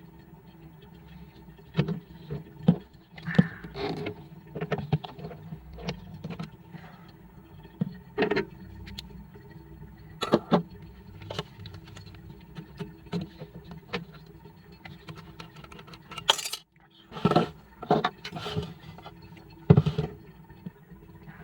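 Irregular clicks, knocks and light metallic rattles of small parts and tools being handled, over a steady low hum. The sound cuts out completely for a moment about two-thirds of the way through.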